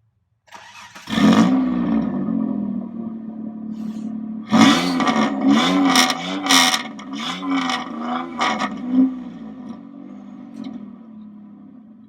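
Mitsubishi Sigma's 3.0 V6 starting up about a second in and settling to idle, then revved in a series of quick throttle blips, the pitch rising and falling each time, before dropping back to idle. Heard from the exhaust.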